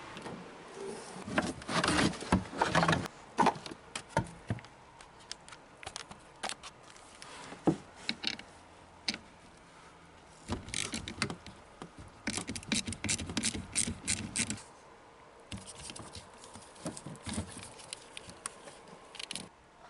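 Hand tools working on car parts: a series of sharp metallic clicks and clinks, coming in quick runs of rapid clicking about twelve seconds in and again near the end.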